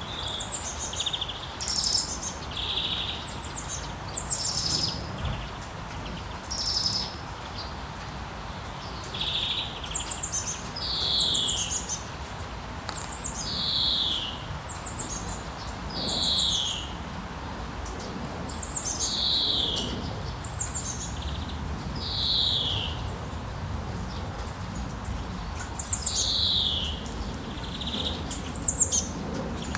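Several birds calling in a rainforest chorus. Sharp high chirps, falling whistled notes every two to three seconds and short buzzy trills repeat over a steady low background hiss.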